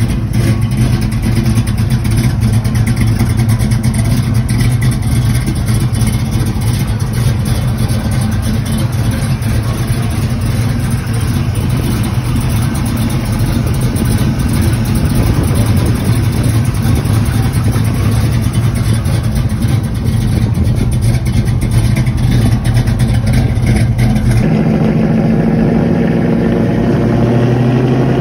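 Chevy II Nova's V8 idling loud and choppy with a lumpy cam, a fast uneven pulsing exhaust note. About four-fifths through the sound changes to a steadier tone, and its pitch rises briefly near the end.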